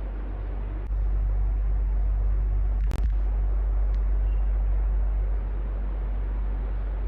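Electric fan running steadily: an even whooshing noise over a strong low hum. It grows louder about a second in and eases back a little past five seconds, and there is one sharp click with a split-second dropout about three seconds in.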